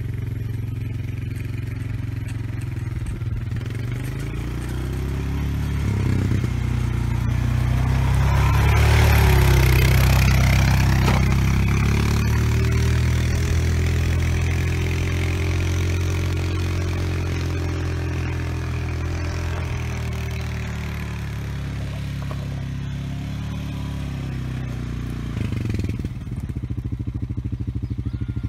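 ATV engine running under load while towing a land planer through dirt. It grows louder about a third of the way in, with a scraping, rattling noise on top, then eases back; the engine pitch dips and recovers briefly near the end.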